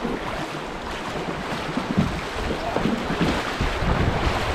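Rushing whitewater of creek rapids as a kayak runs through them, growing louder, with wind buffeting the microphone and irregular low knocks of water against the hull.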